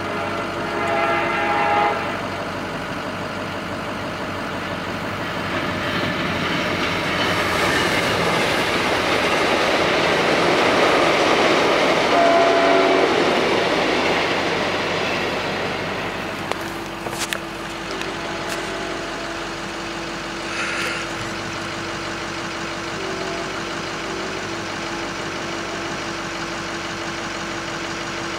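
Passenger train sounding its horn briefly on approach, then passing close by with a rising and falling rumble of wheels on rail, loudest about ten to thirteen seconds in, with a second short horn note as it goes by. After it passes, a steady tone lingers.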